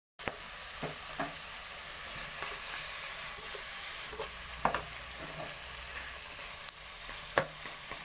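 Pork, onion and potato frying in a nonstick pot: a steady sizzle, with a wooden spoon scraping through the food and knocking sharply against the pot several times as it is stirred, the loudest knock about seven seconds in.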